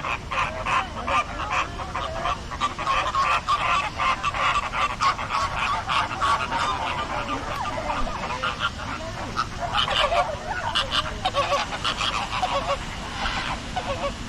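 A flock of birds calling over one another: a dense, continuous run of short, overlapping calls.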